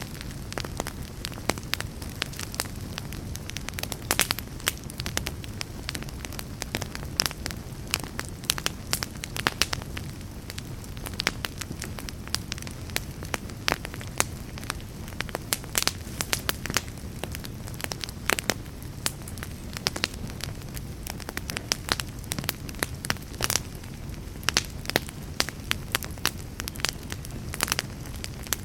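Wood fire burning in a fireplace: a steady low rumble of flame with many sharp, irregular crackles and pops throughout.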